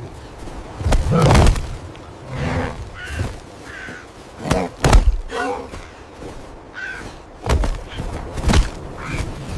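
A series of heavy thuds, about six spread over nine seconds, with short harsh calls between them.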